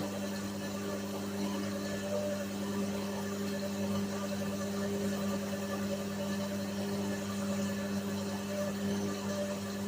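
Whirlpool washing machine running mid-cycle: a steady, even hum with no breaks or changes in speed.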